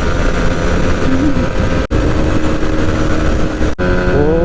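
Yamaha MT-15's single-cylinder engine running on the road under heavy wind noise from a helmet-mounted microphone, cut off briefly twice, with the engine note rising near the end.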